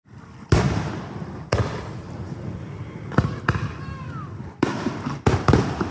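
Fireworks exploding close by: about seven sharp bangs at irregular intervals, each followed by a rolling, rumbling echo.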